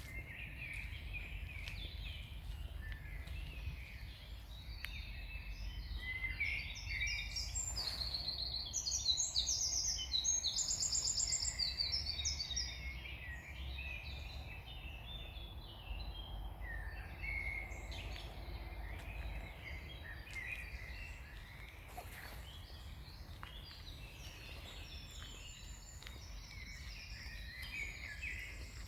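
Several songbirds singing in a summer forest, short chirps and trills overlapping throughout, with a burst of fast, loud trills about a third of the way in. A steady low rumble runs underneath.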